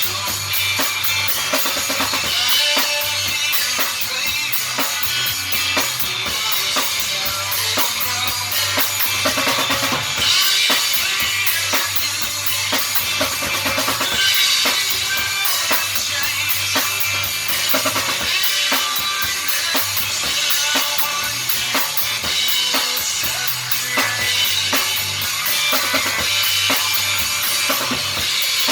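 Rock and roll band playing at a steady tempo, led by a drum kit with bass drum, snare and cymbals over an electric bass line.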